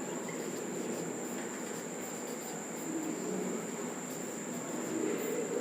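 Room tone between spoken phrases: a steady background hiss with a thin, steady high-pitched whine.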